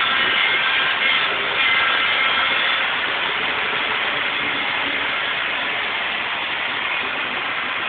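Model train running on its layout track: a steady whir and rumble, with a faint thin whine in the first few seconds.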